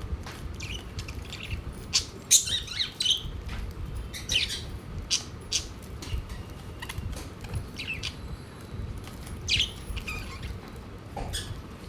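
Budgerigars chirping and squawking in short, scattered bursts, mixed with many sharp clicks and taps.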